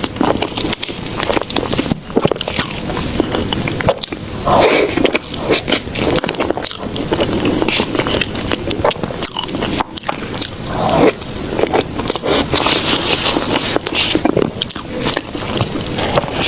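Close-miked eating of soft desserts: biting and chewing, with wet, sticky clicks and crackles packed closely throughout.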